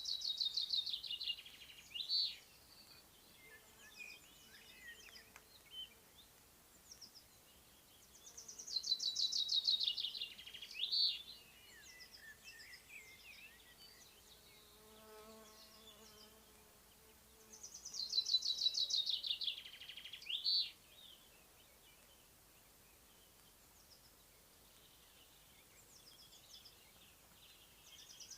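A songbird repeating its song three times, about every nine seconds: a fast trill falling in pitch and ending in a short flourish. In the quiet gaps between, a bee buzzes faintly past in the middle.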